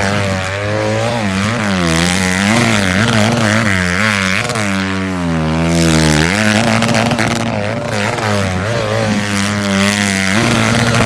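Honda CRF150 dirt bike's four-stroke single-cylinder engine held wide open on the rev limiter. Its pitch wavers up and down throughout and dips lower about halfway through as the bike circles.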